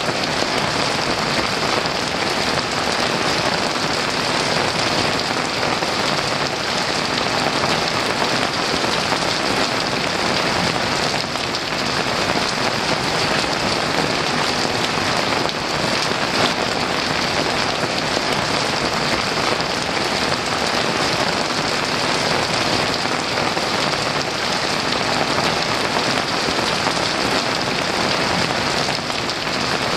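Heavy rain falling steadily, a dense, even hiss of drops without let-up.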